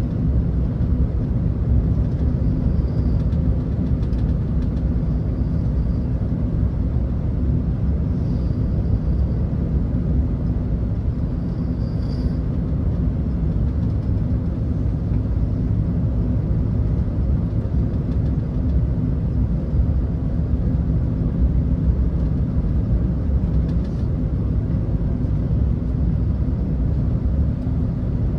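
Steady low rumble of an Airbus A380's engines and rushing air, heard from inside the passenger cabin.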